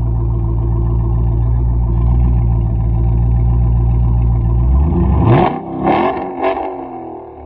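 Car engine idling steadily with a deep, even note, then revved three times in quick succession near the end.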